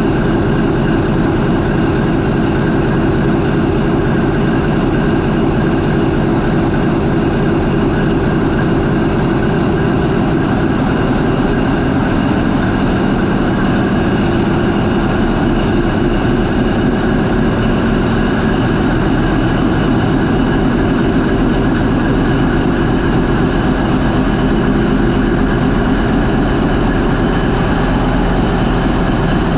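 MAN 20V28/33D STC twenty-cylinder marine diesel main engine running at idle, around 400 RPM, a loud steady drone.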